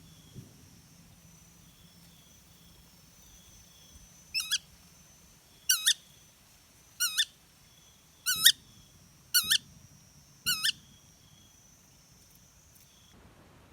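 Shikra calling: six sharp, high two-note calls, each pair repeated about every second and a quarter through the middle of the clip.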